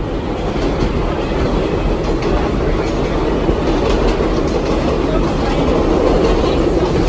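Vintage New York City subway train of R33WF and R38 cars running along the track: a steady, loud rumble with faint scattered clicks from the wheels.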